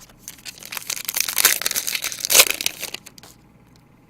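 Crinkling and tearing of a trading-card pack wrapper as it is ripped open, for a couple of seconds with two louder rips, then a few light handling ticks.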